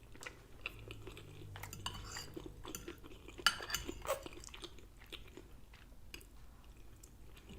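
A person chewing a mouthful of lasagna close to the microphone: soft, wet mouth clicks and smacks, a couple of louder ones partway through.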